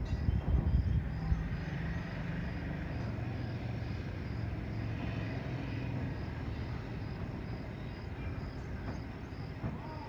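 An engine running steadily at low revs, loudest in the first second or so, then holding level. Insects chirp faintly in an even, repeating pattern.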